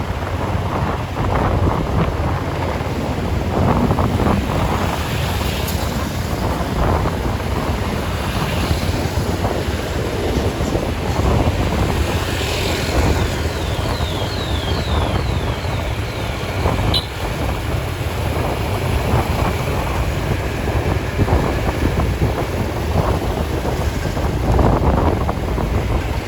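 Steady wind noise on the microphone over a low rumble of traffic. About halfway through there is a brief run of short high chirps.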